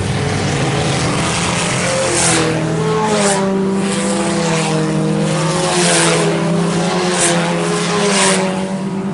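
IMCA Sport Compact race cars' four-cylinder engines running at racing speed around a dirt oval, several engine tones wavering as the cars lap, with repeated short rushes of noise.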